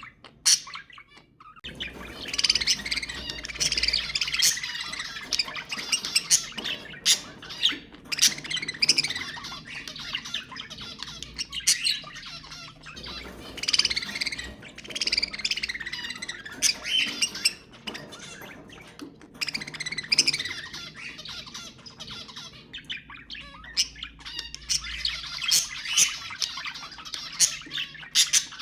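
Budgerigars chattering and squawking, a dense stream of high chirps and short sharp calls that starts after a brief quiet moment at the beginning.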